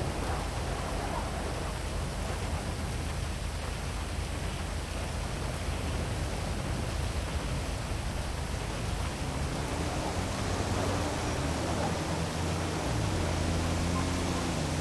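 Heavy rain falling steadily, an even hiss, over a low city hum that grows stronger about two-thirds of the way through.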